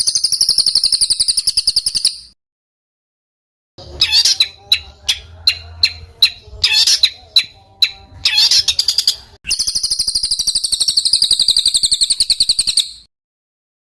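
Small songbird singing a harsh, rapid rolling trill, then after a short pause a run of sharp, separate shot-like notes, then the rapid trill again.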